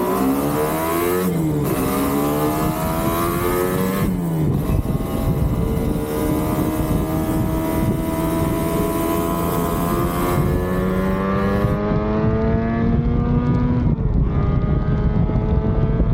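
Yamaha RD250 two-stroke twin engine pulling through the gears on the road: its pitch climbs and drops sharply at gear changes about one and a half and four seconds in, then climbs slowly for about ten seconds before dropping again near the end. Wind noise runs underneath.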